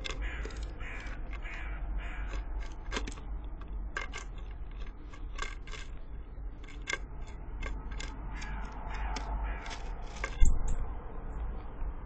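Birds calling outside, a run of short, harsh, repeated calls over a steady low outdoor rumble, with a single loud thump about ten and a half seconds in.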